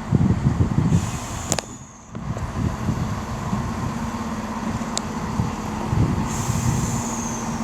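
Class 170 Turbostar diesel multiple unit at the platform, its underfloor diesel engine running with a steady low rumble. A faint high squeal falls in pitch about a second in and again near the end.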